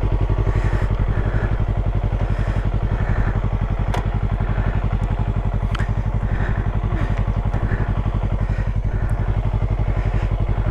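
Motorcycle engine idling steadily with the clutch pulled in, with a couple of light clicks partway through.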